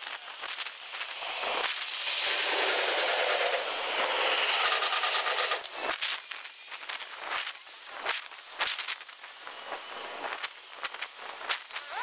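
Field audio of Hankyu trains on a steel railway bridge played at ten times speed, so the passing train becomes a high hissing rush with fast crackling clicks. The rush is loudest over the first half, then gives way to scattered sharp clicks over a fainter hiss.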